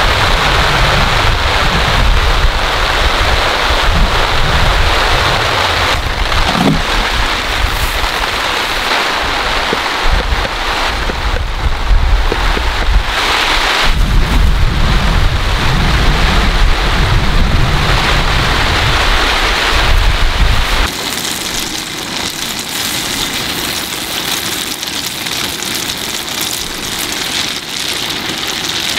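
Heavy rain falling, with gusty wind buffeting the microphone as an uneven low rumble. About 21 seconds in the rumble stops abruptly and only the steady sound of heavy rain remains.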